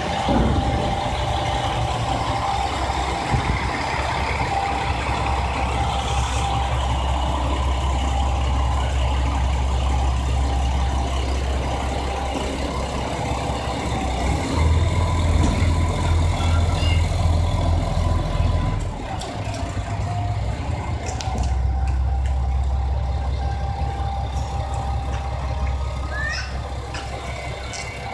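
Diesel engine of a JR Shikoku 2000 series railcar running steadily at low revs. The engine note grows louder about halfway through, drops away for a couple of seconds around two-thirds in, then picks up again.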